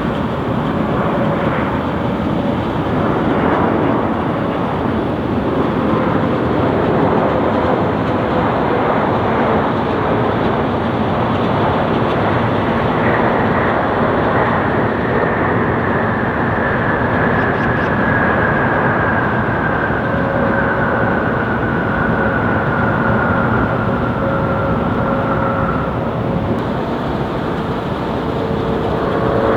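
Boeing 777 jet engines running loud and steady as the airliner passes, with a whine that falls slowly in pitch through the second half.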